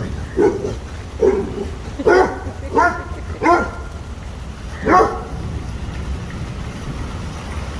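A dog barking six times in quick, short barks over about five seconds, over a steady background of rain.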